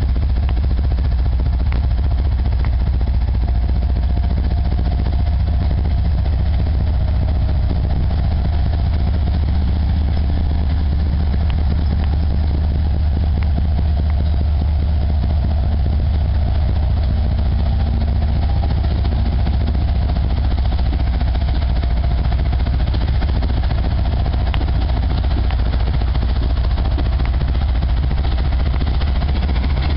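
Diesel locomotive engines running steadily with a deep, unchanging drone.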